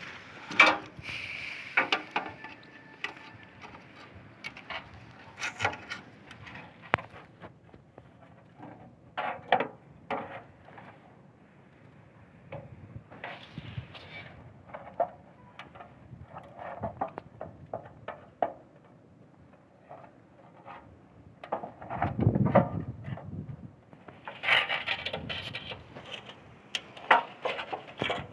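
Irregular knocks, clicks and scrapes of hand work on materials, with a heavier thud about two-thirds of the way through and a spell of rubbing or scraping after it.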